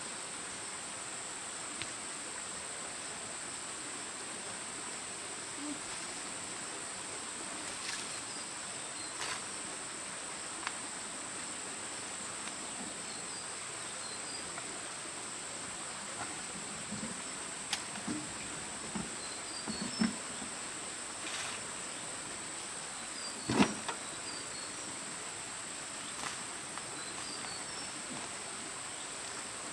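Steady high-pitched drone of insects, with scattered knocks and thuds, the loudest about three-quarters of the way through.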